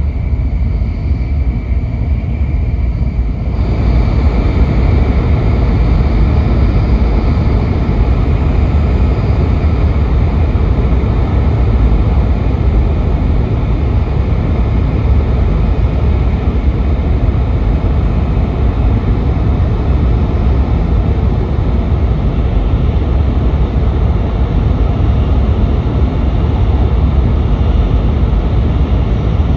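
Running noise inside the cabin of a Nishi-Kyushu Shinkansen N700S train at speed: a loud, steady low rumble with a rushing hiss over it. About three and a half seconds in, the noise grows louder and fuller, and it holds there.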